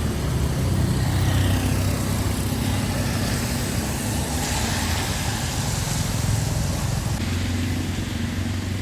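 Motor vehicle engine running steadily, with a low hum and a wash of street noise.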